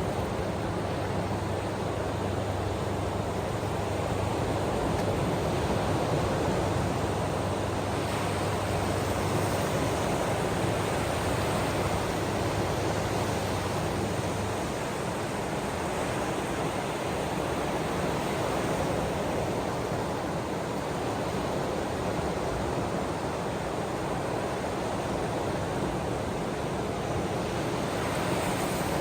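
Ocean waves washing in a steady, even wash of noise with slow gentle swells. A low steady hum sits underneath and stops about halfway through.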